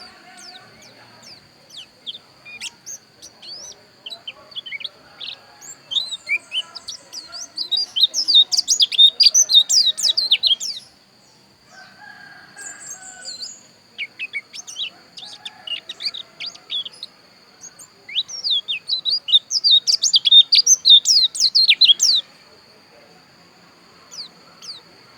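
A pleci dakun white-eye singing a rapid, high twittering song of quick chirps. The song comes in two loud bursts, one from about six to eleven seconds in and one from about eighteen to twenty-two seconds in, with softer scattered chirps between.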